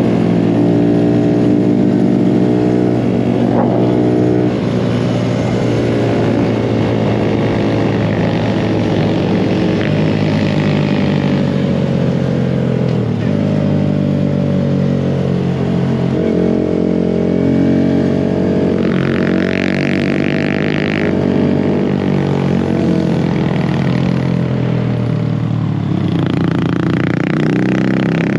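Small mini bike engine running under way, its pitch rising and falling as the throttle changes. About two-thirds of the way through there is a brief hiss.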